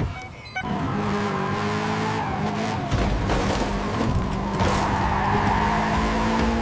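Car sound effect of a vehicle speeding off, with the engine running and the tyres squealing, starting about half a second in.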